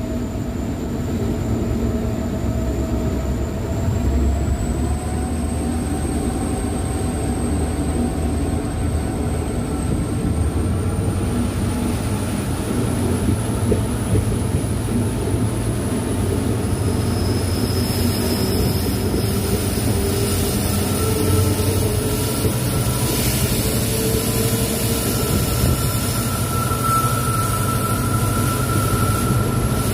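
WDP4D diesel-electric locomotive's EMD 16-cylinder two-stroke engine working under load as it accelerates a passenger train. A high turbocharger whine climbs slowly in pitch over the first half and then holds steady, over a continuous rumble.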